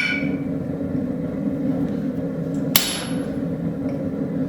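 Two sharp, ringing hammer blows on a punch, driving dice-style dots into the hot railroad spike handle. The first comes right at the start and the second nearly three seconds later, over a steady low hum.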